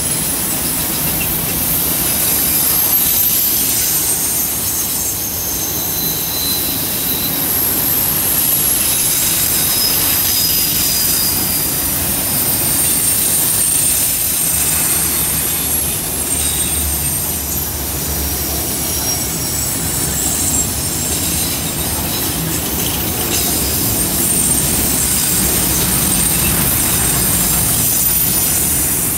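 Freight train of autorack cars rolling past on a curve: a steady rumble of wheels on rail, with high thin wheel squeal coming and going as the flanges grind against the curved rail.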